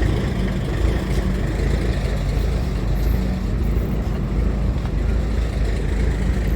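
Semi truck's diesel engine idling steadily, just fired up, with an even low rumble.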